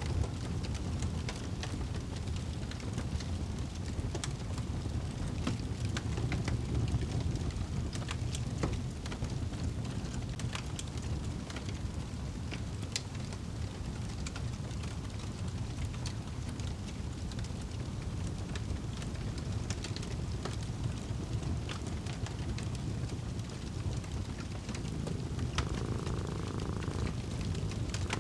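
Fireplace fire crackling, with scattered sharp pops over a steady low rumble. A second, higher steady noise joins near the end.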